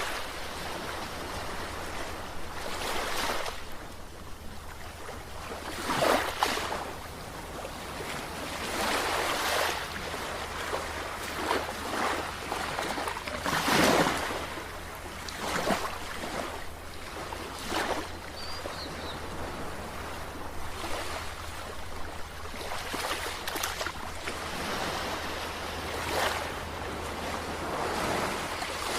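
Sea surf washing in, with a new surge of breaking water every two to three seconds over a steady low rumble.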